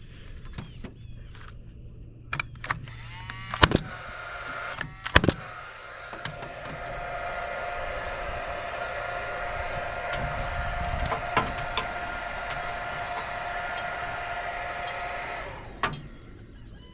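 A few sharp wooden knocks, then an electric power tool's motor runs steadily for about nine seconds with an even whine and cuts off suddenly.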